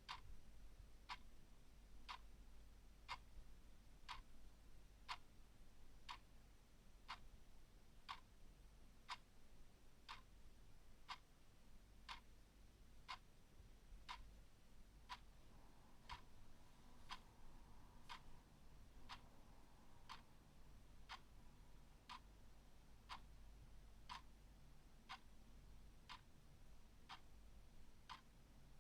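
Clock ticking faintly and evenly, one tick a second, over a low steady hum.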